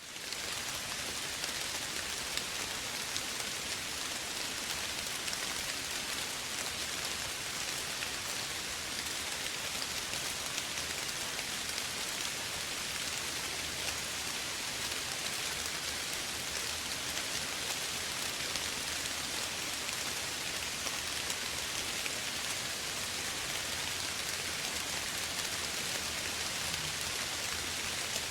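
Steady, soft rain falling, an even hiss of many small droplets pattering on a surface, fading in at the very start.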